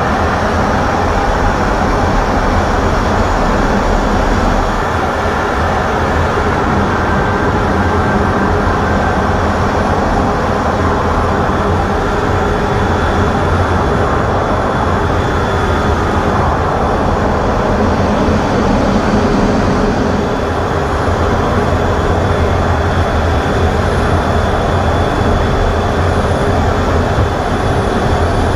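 Loud, steady jet aircraft engine noise with a low hum underneath, with no distinct events.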